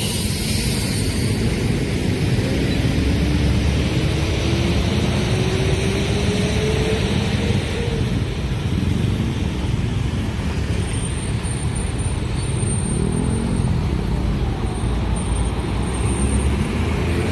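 Long train passing a level crossing: a loud, steady rumble of wheels on the rails, with a tone that rises slowly over several seconds near the start.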